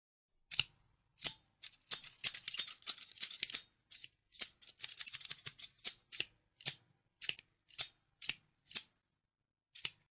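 Scissors snipping: single crisp cuts, a quick run of rapid snips, then separate cuts about every half second.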